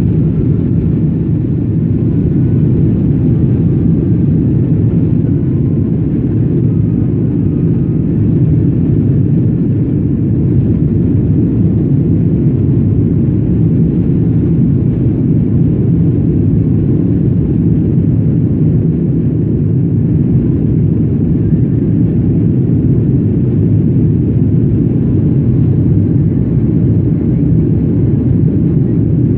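Boeing 777 jet airliner during takeoff, a loud, steady, deep rumble of engines and airflow that holds unchanged throughout.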